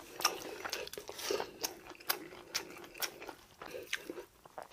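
Close-miked chewing and mouth sounds of a person eating, with irregular wet smacks and soft crunches a few times a second.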